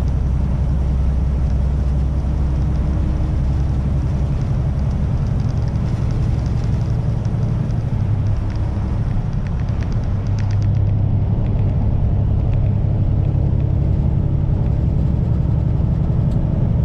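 Kenworth semi-truck's diesel engine running at road speed, heard from inside the cab as a steady low drone with road noise, growing a little louder about ten seconds in.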